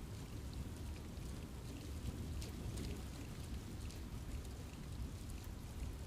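Steady rain falling in a forest, a soft continuous patter with many separate drops striking leaves and ground.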